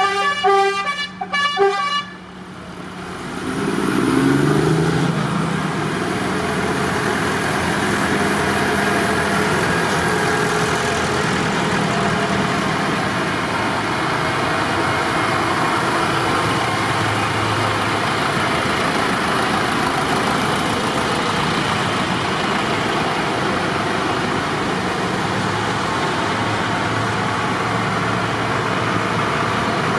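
A vehicle horn tooting in several short blasts, then vehicle engines running steadily, one engine note rising briefly about four seconds in.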